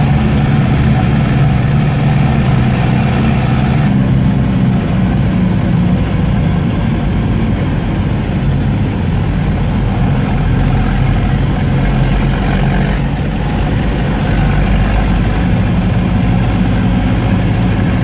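Car engine running steadily under road noise while driving along a highway, heard from inside the cabin; the engine note shifts about four seconds in.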